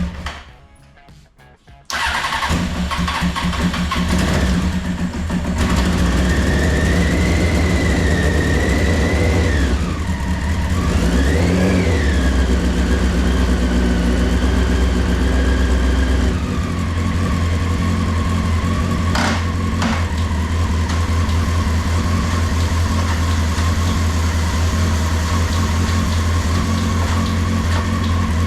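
1992 Honda CBR900RR's inline-four engine running through its Two Brothers Racing exhaust, idling steadily after a short quiet moment at the start, with one brief rev about eleven seconds in.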